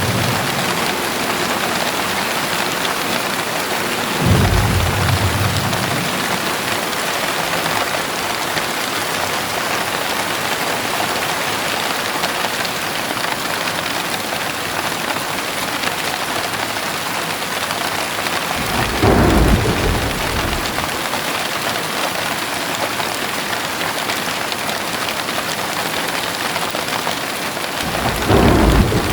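Heavy rain falling steadily, with three short rumbles of thunder: about four seconds in, around nineteen seconds in, and just before the end.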